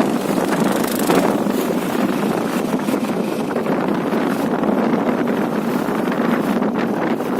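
Steady rush of wind on the microphone with road noise from a moving motorcycle.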